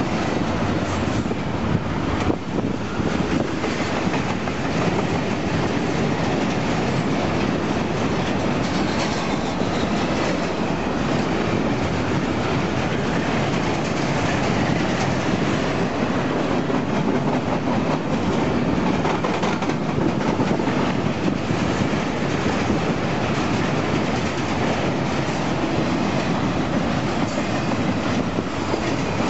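Empty double-stack well cars of a freight train rolling past close by: a steady noise of steel wheels on rail, with a clickety-clack over the rail joints.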